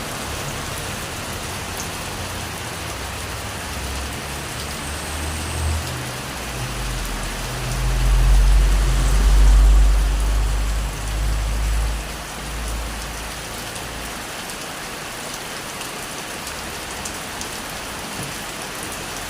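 Steady rain falling. A deep low rumble builds up about seven seconds in, is loudest for a couple of seconds, and dies away a few seconds later.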